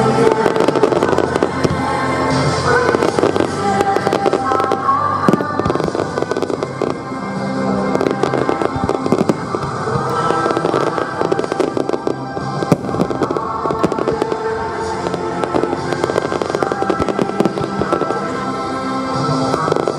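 Aerial fireworks going off continuously: many bangs and dense crackling one after another, with music playing throughout.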